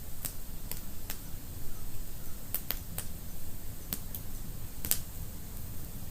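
Wood fire crackling in a fireplace: irregular sharp pops and snaps, about nine of them, the loudest near the end, over a low steady rumble of the flames.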